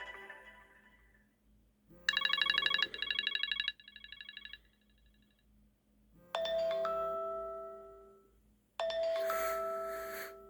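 Old iPhone ringtones playing. First a fast warbling electronic ring, followed by a fainter repeat. Then two struck, bell-like chimes, each ringing on and fading over about two seconds.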